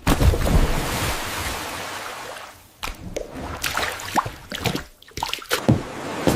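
AI-generated food ASMR sound effects: a hissing rush that fades over about three seconds, then a run of small wet clicks and squishes.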